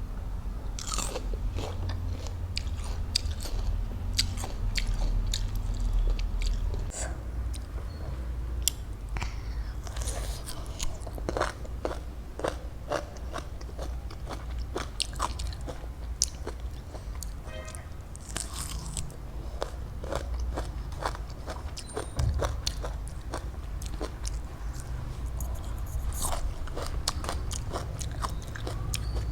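Close-miked biting and chewing of crunchy raw fruit: many irregular wet crunches, clicks and crackles, over a steady low hum.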